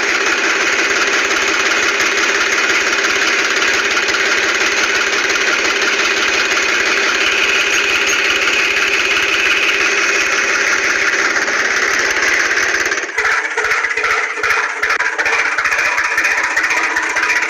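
An engine running steadily; about two-thirds of the way through it changes abruptly to a choppier, knocking engine sound.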